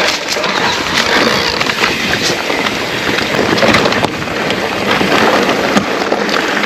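Electric mountain bike riding over a rough, stony trail: tyres crunching on grit with frequent small clicks and rattles from the bike, and wind rushing over the microphone.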